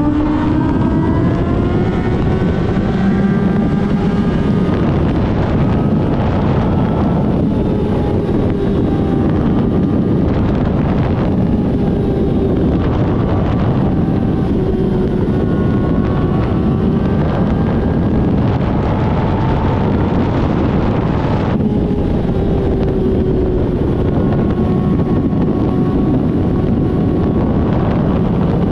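Motorcycle engine running at a steady speed under heavy wind rush on the microphone, its pitch drifting slowly up and down, with a few brief dips.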